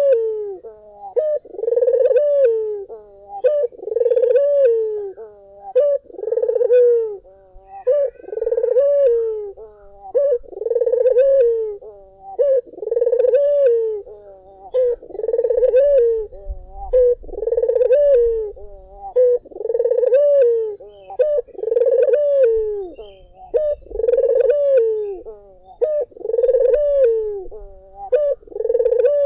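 Ringneck dove (puter) cooing over and over, about one coo every second and a half, each a low call with a rolling, swooping pitch. Faint thin chirps sound above it.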